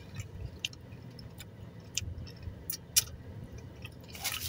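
Close-up chewing of food, with scattered sharp wet mouth clicks and smacks. Near the end comes a short burst of rustling.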